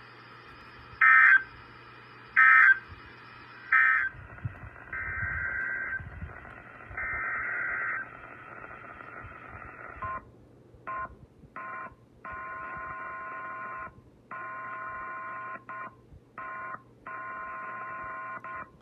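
Emergency Alert System data tones: three short, loud bursts of shrill digital tones about a second and a quarter apart, typical of the SAME end-of-message code. They are followed by quieter steady electronic tones that stop and start in longer stretches through the second half.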